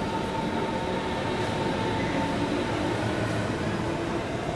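Electric train running along the elevated tracks: a steady rumble with faint whining tones that shift in pitch.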